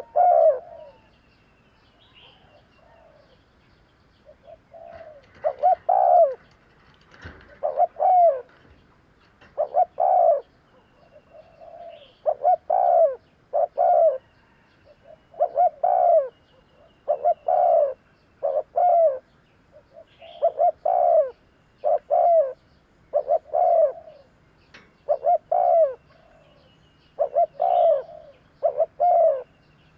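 Spotted dove cooing: low, throaty coos in quick runs of two or three, each note dropping in pitch, repeated steadily after a short lull near the start. A second bird gives faint, high chirps now and then.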